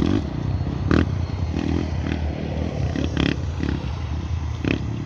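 Off-road racing motorcycle engine running with a deep, steady rumble, with a few sharp cracks about one, three and four and a half seconds in.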